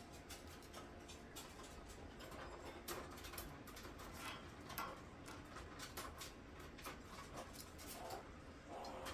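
Six-day-old kittens making a few faint, short squeaky mews, two of them near the end, among scattered soft clicks and scuffles.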